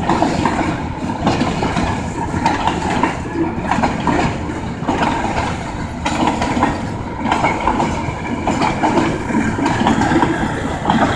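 Bay Line Railroad train rolling past, its cars' wheels clattering and clanking over the rails in a steady, loud rumble.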